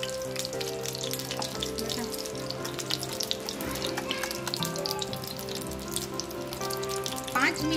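Egg-coated mutton shami kababs shallow-frying in hot oil, sizzling with a steady fine crackle. Background music with long held tones plays underneath.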